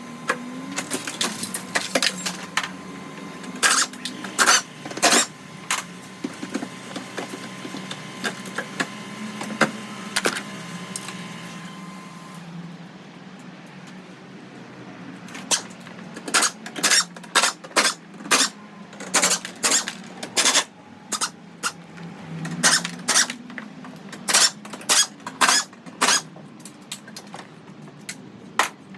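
Irregular sharp metallic clicks and clanks of tools and car parts being worked during vehicle dismantling, some in quick clusters, over a low steady hum. A faint steady tone in the background stops about twelve seconds in.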